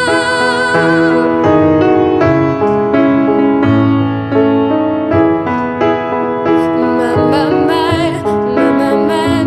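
Slow piano music, a run of separate notes played one after another.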